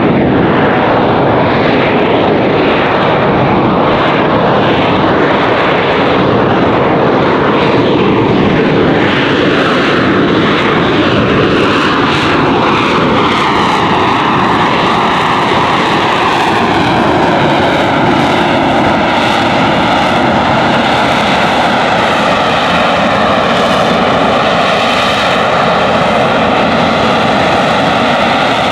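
AV-8B Harrier II's Pegasus turbofan running at high thrust through its hover and slow-flight display, a loud, steady jet rush with no pauses. From about halfway a hollow, phasing tone sweeps slowly downward in pitch as the jet shifts position.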